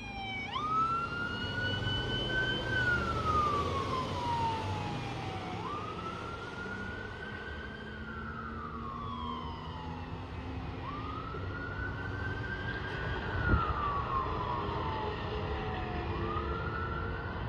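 Fire truck siren wailing in slow cycles, each rising quickly, then falling over a few seconds and starting again about every five seconds, over a low engine rumble.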